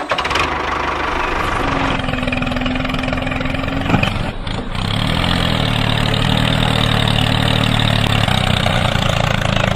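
Engine of a DIY mini tractor running steadily with a fast rattling throb; it dips briefly about four seconds in, then runs on with a stronger low hum.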